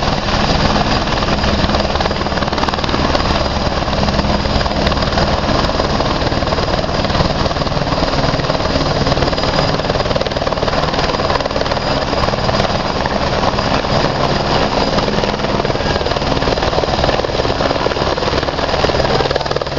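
Helicopter rotor and engine noise, loud and steady throughout.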